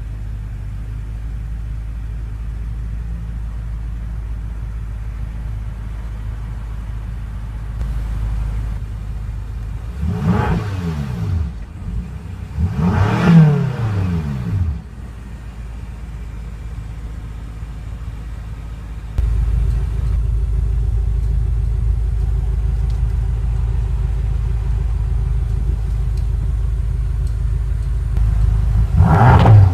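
BMW M5 (F10) 4.4-litre twin-turbo V8 idling, blipped twice in quick succession about ten and thirteen seconds in, each rev rising and falling back. The idle gets louder about nineteen seconds in, and another rev starts near the end.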